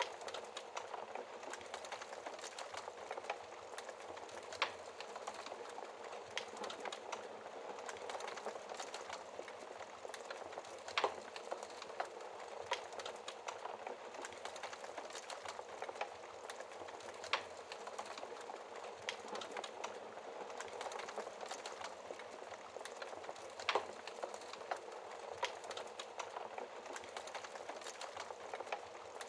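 Wood fire burning with steady dense crackling, broken by sharper, louder pops every few seconds.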